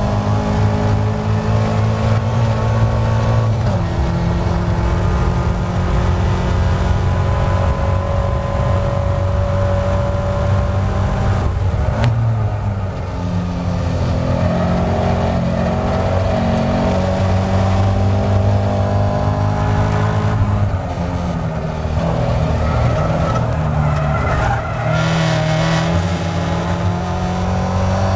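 Caterham Seven race car's engine running at high revs on a circuit lap, heard from inside the open cockpit with wind noise. The pitch climbs slowly through each gear and drops at several gear changes, with a sharper drop under braking about halfway through.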